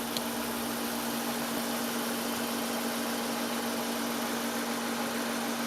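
An engine idling steadily, giving an even, unchanging hum.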